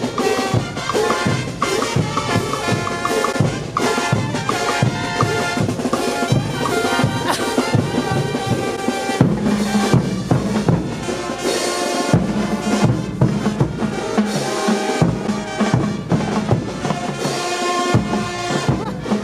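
Brass-and-drum band music: trumpets playing over a steady beat of bass drum and snare.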